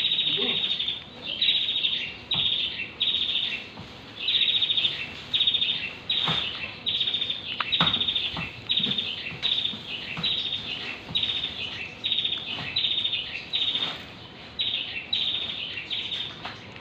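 A bird chirping over and over in short, high, trilled notes, about one or two a second, with a few faint knocks and rustles underneath.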